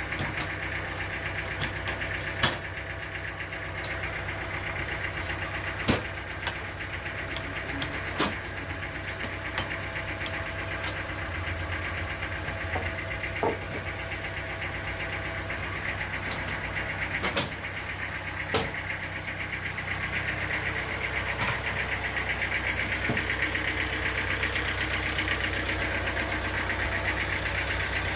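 Sawmill machinery running steadily, with a sharp knock or clack every few seconds. It grows a little louder about twenty seconds in.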